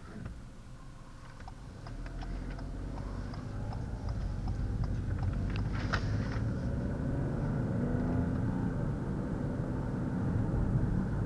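A 2020 Ford Escape with a 1.5-litre EcoBoost three-cylinder engine, heard from inside the cabin while driving. A steady low engine and road rumble grows louder over the first few seconds as the car picks up speed, with scattered light clicks and ticks in the middle.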